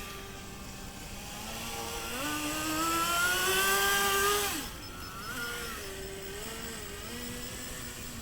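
Kyosho Blizzard DF300 radio-controlled snowcat's electric drive motors whining, the pitch climbing for about two seconds as it speeds up, then falling away suddenly about four and a half seconds in. A quieter whine then wavers up and down as it manoeuvres.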